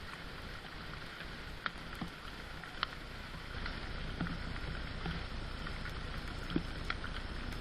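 Steady rain falling, with a few louder single drips standing out here and there.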